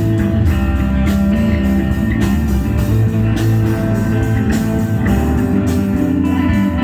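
Rock band playing live: guitar over a heavy bass line and drum kit, at a steady loud level.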